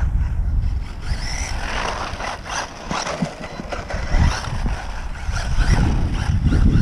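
Electric motor of a WLtoys RC short course truck whining up and down in pitch as it is driven, with wind buffeting the microphone.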